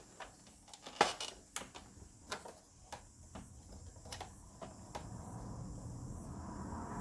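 Scattered clicks and knocks of a projector's parts being pried and handled as it is taken apart, the loudest about a second in. A low steady hum comes up over the last two seconds.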